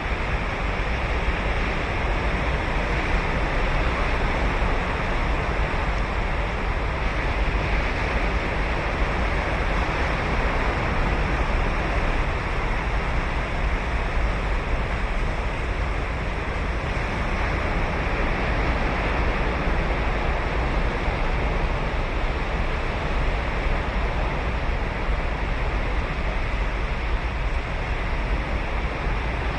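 Ocean surf breaking and washing on a sandy beach, a steady rush of wave noise that swells gently.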